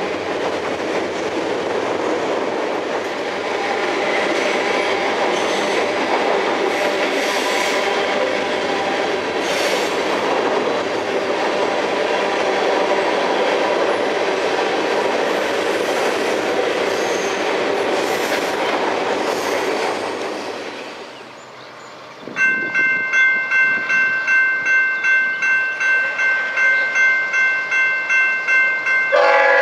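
A freight train rolling past, with steady wheel and rail noise from its cars. After a cut, a grade-crossing bell dings evenly at about two to three strokes a second. A locomotive horn starts sounding near the end.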